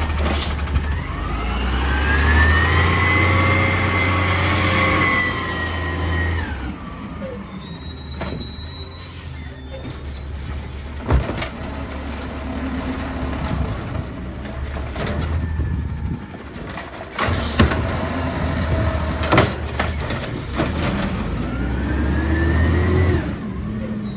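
Peterbilt 320 garbage truck's engine running, revving up and easing off twice, about two seconds in and again near the end. Sharp knocks come several times in between.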